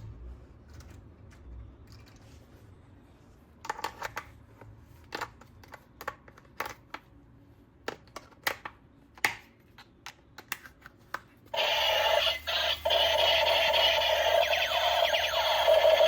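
Scattered light clicks and taps of plastic toy parts being handled. About three-quarters of the way in, a loud electronic sound effect from a battery-powered toy's small speaker starts suddenly and keeps going, with a wavering, warbling tone.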